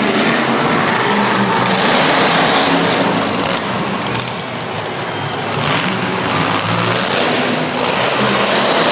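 Monster truck engine running loud, its level easing briefly about four and a half seconds in.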